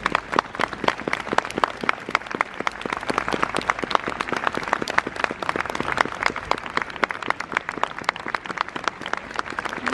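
A crowd applauding: dense, sustained clapping.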